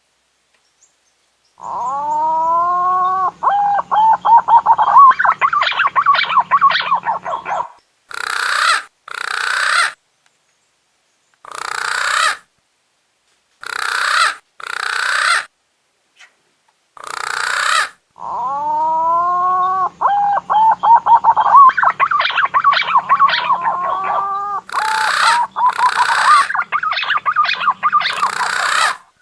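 Recorded lure call of a green pigeon (punai daun), played twice. Each phrase opens with sliding whistled notes and breaks into a fast, gurgling warble lasting several seconds. After each phrase come several short harsh hissing bursts about a second apart.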